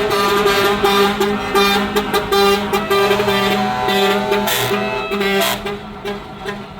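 Truck air horns blowing in long, steady, overlapping tones, with short interruptions, easing off near the end.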